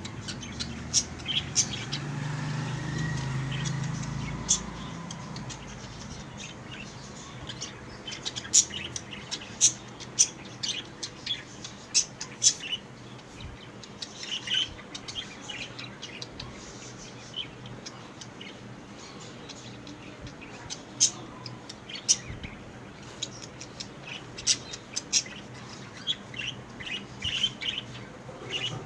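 Budgerigars chirping: many short, sharp calls scattered throughout. A low hum sounds for a few seconds near the start.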